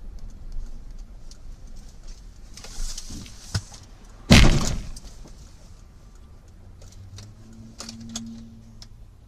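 A vehicle collision picked up by a dashcam: one loud bang about four seconds in, with smaller knocks and rattles around it, over a low steady rumble of road and engine noise.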